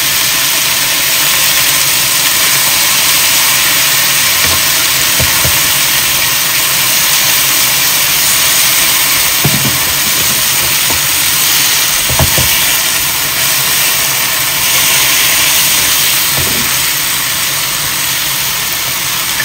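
Beef and water mimosa stir-frying in a nonstick pan: a loud, steady sizzle, with the spatula knocking against the pan a few times.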